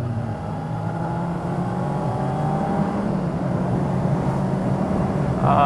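Motorcycle engine running steadily while under way, with a steady hum.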